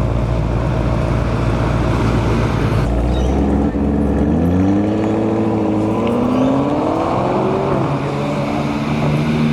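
Car engine running steadily, then the revs climb for about four seconds as the car accelerates, and the pitch drops suddenly near the end before settling steady again.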